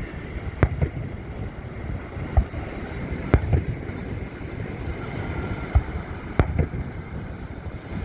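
Aerial fireworks bursting in a run of sharp bangs, about seven in eight seconds, some in quick pairs, over steady wind noise on the microphone.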